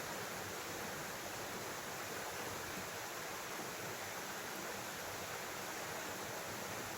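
Steady rushing of a nearby stream: an even, unbroken water sound.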